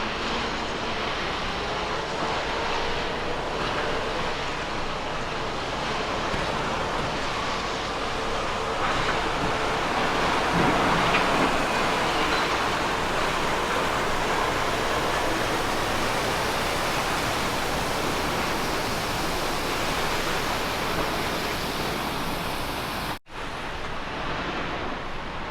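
Volvo FH16 truck pulling a triple road train, its engine running under a steady rush of tyre and trailer noise and wind on the microphone. It grows loudest about ten to twelve seconds in, where faint whining pitches glide, and cuts out for an instant near the end.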